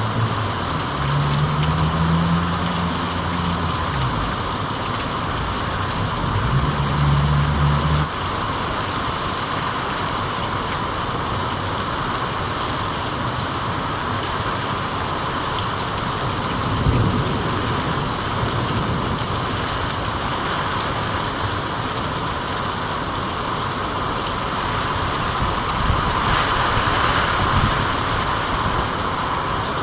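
Steady rain falling, an even hiss. For the first several seconds a low motor hum runs under it, then it cuts off suddenly.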